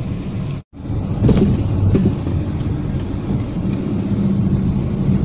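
Steady low rumble of a moving vehicle heard from inside: road and engine noise, with a brief cut to silence under a second in.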